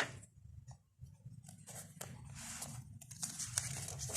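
Soft paper rustling and handling noise in a small room, several short rustles, with a sharp click at the start and another at the end, over a low steady hum.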